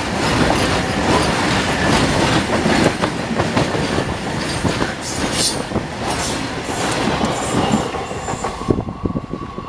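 Freight wagons of a goods train passing close at speed: a loud, continuous rumble and clatter of steel wheels over the rail joints. Near the end the noise drops off suddenly, and only fainter separate wheel clicks are left as the brake van goes by.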